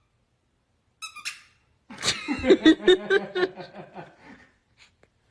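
A short high squeak about a second in, then a burst of laughter in quick, pitched pulses that fades out over about two and a half seconds.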